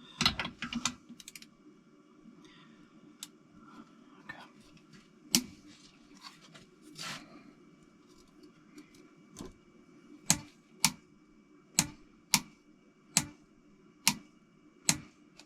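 Sharp metallic clicks of a ratchet wrench turning bolts on a Toyota 4A-GE engine while angle-tightening them: a few scattered clicks at first, then a regular run of about seven, one every half-second to second, over the last five seconds. A faint steady low hum sits underneath.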